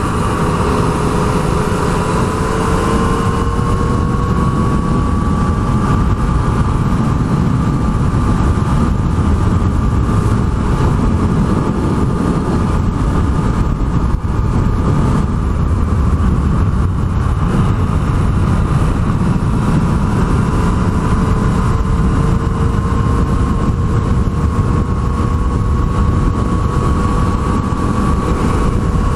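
Yamaha MT-09 three-cylinder motorcycle engine running at a steady cruise, its whine drifting slightly higher in pitch a few seconds in and again in the second half, over a steady low rush of noise.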